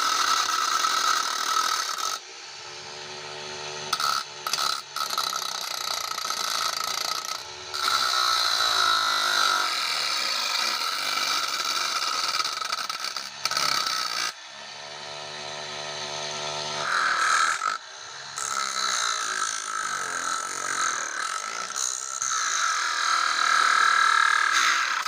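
Homemade angle grinder driven by a 775 DC motor, its disc grinding in long loud stretches with a high whine. Between stretches it drops back several times to the motor spinning free with a lower, even hum.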